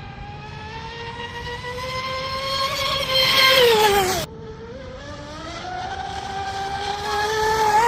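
Twin electric motors of an RC catamaran speedboat whining at speed, the pitch climbing as it accelerates and then falling away, cut off sharply a little past halfway. The whine then climbs again, loudest near the end.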